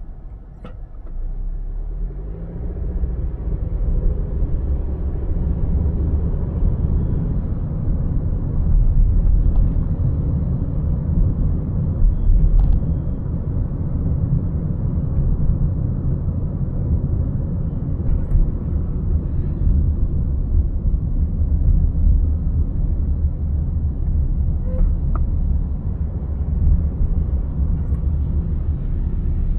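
Low, steady rumble of a car driving on wet city roads. It swells over the first few seconds and then holds, with a few faint clicks.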